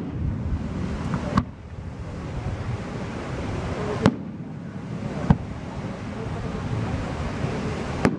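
Aerial firework shells bursting: four sharp bangs spaced irregularly a second or more apart, over a steady low background rumble.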